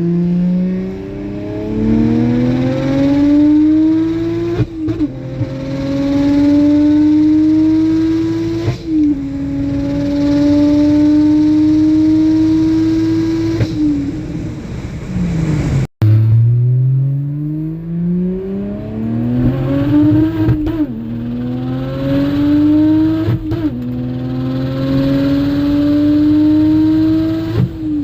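Turbocharged BMW N54 3.0-litre straight-six, on a single 62mm turbo, at full throttle, its revs climbing steadily and dropping sharply at each manual upshift. The sound cuts off abruptly about halfway through, and a second pull through the gears follows.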